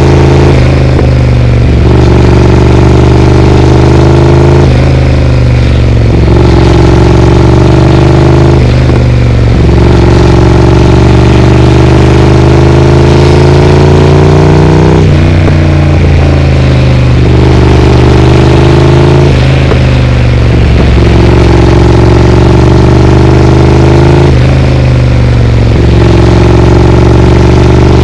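Triumph Speed Twin parallel-twin engine running loud through a Vance & Hines aftermarket exhaust while riding. Its pitch climbs slowly through each stretch and dips briefly every four to six seconds as the throttle is eased or a gear changes.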